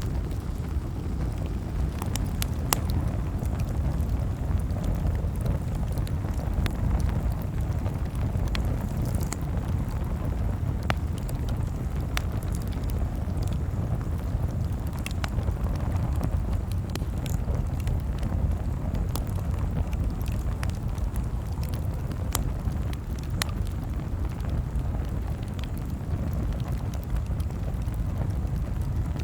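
Campfire crackling, with scattered sharp pops at irregular intervals over a steady low rumble.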